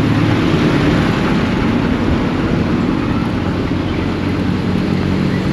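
A motor vehicle's engine running steadily close by, with a low hum over a wash of traffic noise.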